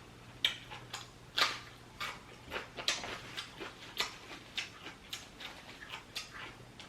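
Close-up mouth sounds of a person eating seafood: wet chewing and lip-smacking clicks at an uneven pace, about two a second.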